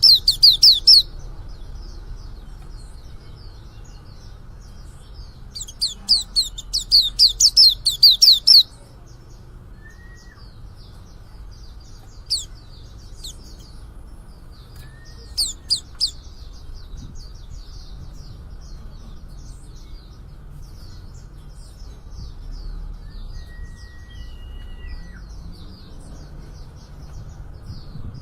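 Young male white-eye (pleci) twittering as it begins to sing: a fast run of high chirps in the first second and another from about six to eight and a half seconds, with a few single chirps later and a faint steady twitter in between.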